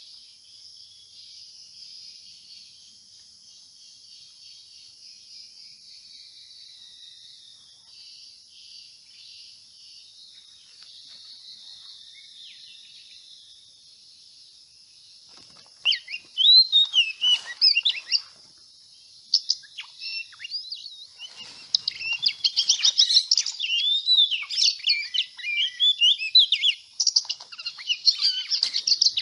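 Birds chirping: a faint, steady high-pitched chorus for about the first half, then a bird close by singing loud, rapid chirps and swooping whistles, starting about halfway through and continuing.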